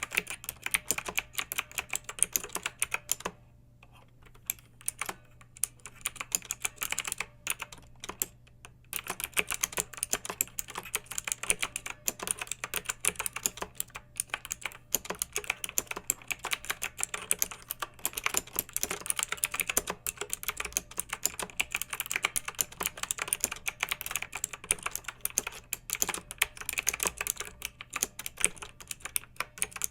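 Clicky mechanical keyboard typing, a quick run of many keystrokes. About three seconds in it thins to a few scattered keystrokes for some five seconds, then picks up again.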